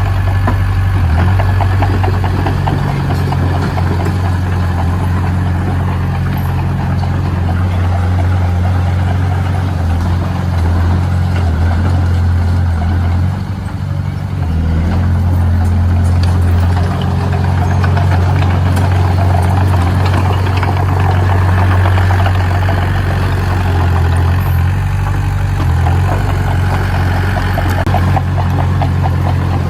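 Diesel engine of heavy construction machinery running steadily, with a brief dip in loudness about halfway through.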